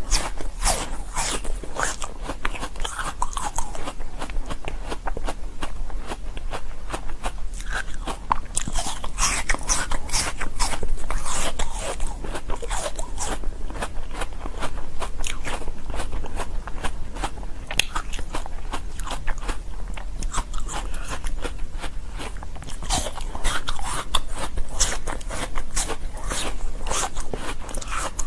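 Close-up crunching and biting of hard shaved ice: fast, irregular cracks and crackles as the ice is chewed, running continuously with short busier stretches. A steady low hum lies underneath.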